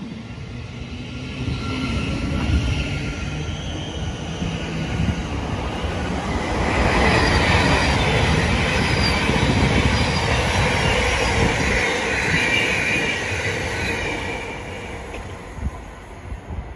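Thameslink Class 700 electric train running past. The rumble of wheels on rail builds over the first few seconds, is loudest through the middle with high-pitched tones over it, then fades as the train draws away near the end.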